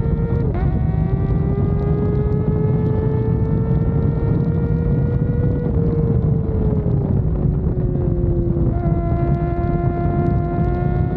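Kawasaki ZX-4RR's 399 cc inline-four running at high revs under way. There is a quick gear change about half a second in, then the engine note climbs slowly, eases down from about six seconds in and holds steady, with wind rushing over the microphone throughout.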